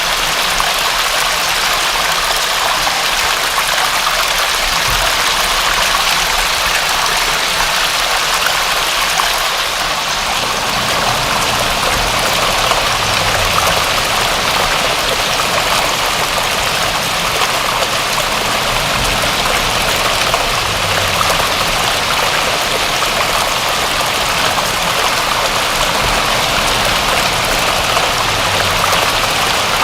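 Steady rain falling, an even hiss of many drops. From about ten seconds in, a low rumble underneath swells and fades every several seconds.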